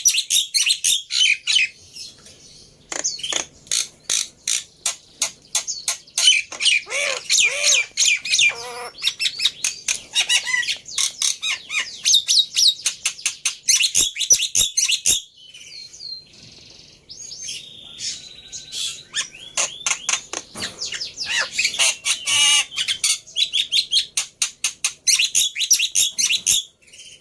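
Black-winged starling (jalak putih) singing: a fast, harsh chatter of clicks and chirps with a few lower squawks mixed in, pausing briefly about halfway through.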